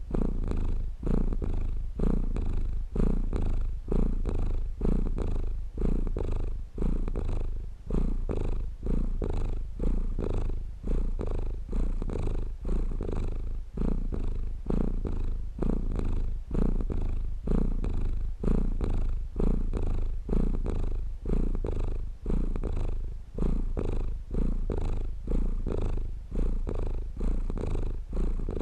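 Domestic cat purring steadily close to the microphone, a low rumble that swells and dips with each breath in and out, about once a second.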